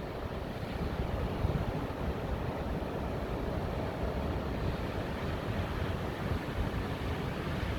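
Strong windstorm wind blowing steadily through tall pine trees, with wind rumbling on the phone's microphone.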